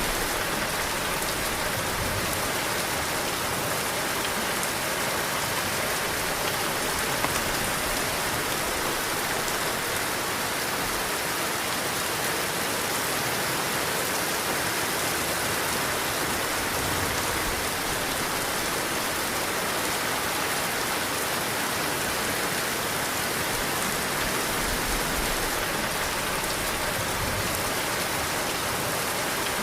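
Heavy rain falling steadily, a dense, even wash of drops, with wind rumbling low now and then.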